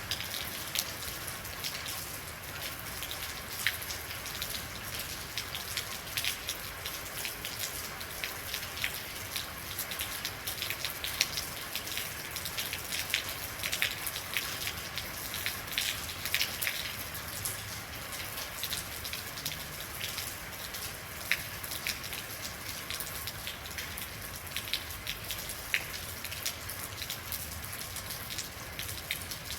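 Steady rain falling, with many irregular sharp drop impacts on a hard surface over a continuous hiss.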